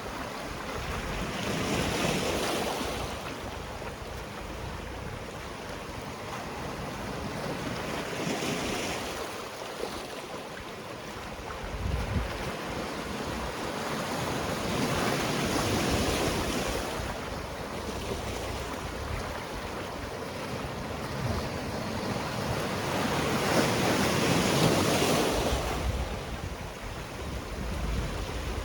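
Sea waves washing onto a rocky shore, swelling and ebbing in surges every six seconds or so, with the loudest a little before the end; some wind on the microphone.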